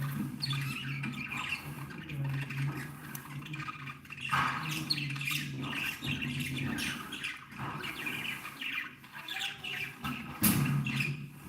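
A flock of budgerigars chirping and chattering without a break, with louder squawks about four seconds in and near the end. A low steady hum sits underneath.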